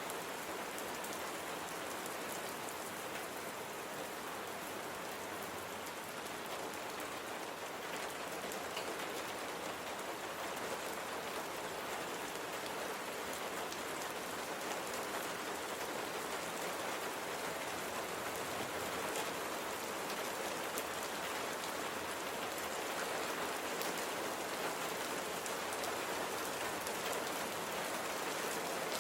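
Steady rain falling on a surface, a dense even hiss with fine scattered drop ticks.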